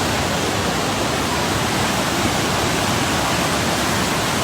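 Fast-flowing floodwater rushing, a loud steady torrent.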